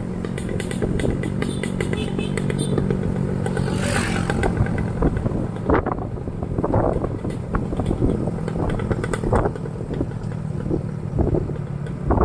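Motorcycle engine running steadily while riding, with scattered rattles and knocks from the bike and a brief rush of noise about four seconds in.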